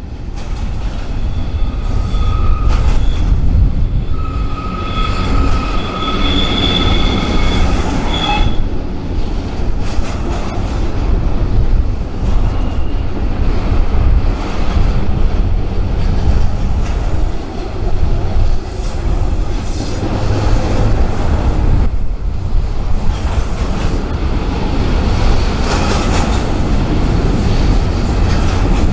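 Freight train rolling past with a steady heavy rumble of wheels and cars. High-pitched steel wheel squeal comes and goes over the first eight seconds or so, then cuts off.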